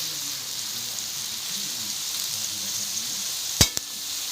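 Sliced onions sizzling steadily in hot oil in a cooking pot, with two sharp clicks about three and a half seconds in.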